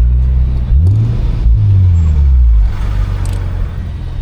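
A car engine accelerating hard. Its note climbs twice, then the engine backs off about three seconds in and the sound falls to a lower rumble.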